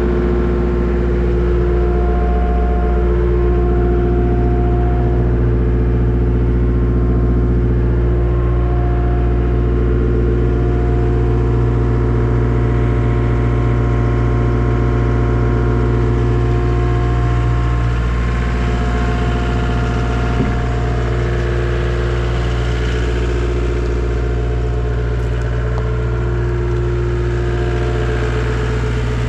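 Diesel engine of a 2012 Takeuchi TL250 tracked skid steer running steadily, with no clear revving. Its tones shift slightly here and there, the sound drops a little about two-thirds of the way through, and there is a single short click about twenty seconds in.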